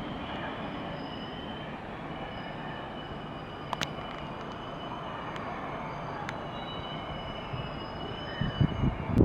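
Train running through the station on steel rails, with thin high-pitched wheel squeals held over the rolling noise and a single sharp click about four seconds in.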